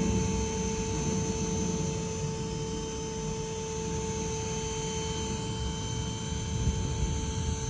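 Bee vacuum running steadily with a constant whine and a loud rush of suction air, pulling live bees out of a hollow gate header.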